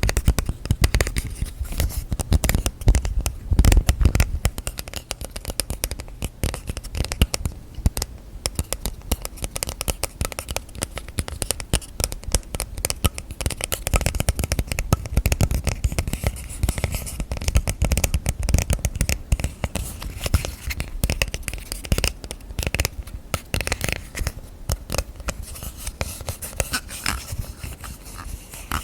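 Fast, continuous fingernail tapping and scratching on small objects and lids, close to the microphone, many quick clicks a second.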